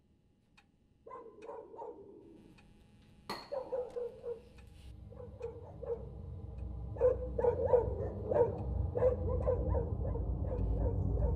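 Many short animal yelps and whines, dog-like and coming in quick runs, starting about a second in, over a low rumble that swells and grows louder through the second half.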